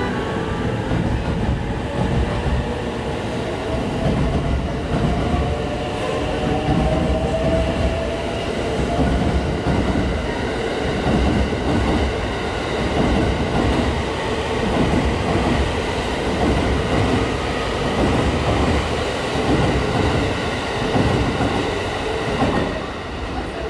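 JR Thunderbird limited express electric train pulling out and passing close by, with a motor whine rising in pitch as it accelerates. Its wheels then clack in a steady rhythm over the rail joints, and the sound falls off near the end as the last car leaves.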